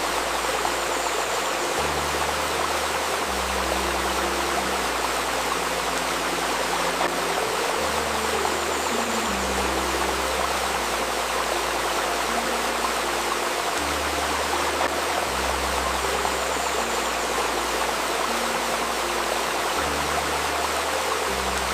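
Steady babbling of a flowing river stream, with soft sustained low tones underneath that shift to a new note every one to two seconds.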